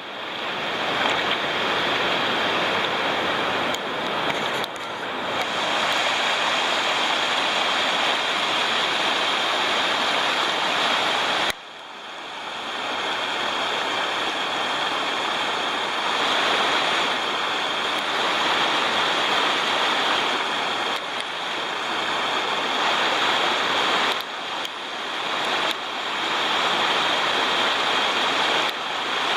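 Waterfall water rushing steadily over rock. It cuts off sharply just under halfway through, then swells back.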